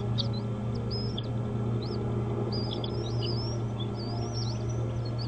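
Birds chirping: a quick run of short, high notes that slide up and down, busiest in the middle, over a steady low hum.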